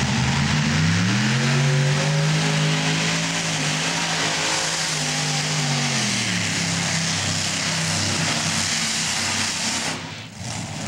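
Modified pulling tractor's engines running at full throttle during a pull, a loud blare. The engine pitch rises about a second in, holds steady, then drops around six seconds in as the tractor bogs down, with a brief dip in loudness near the end.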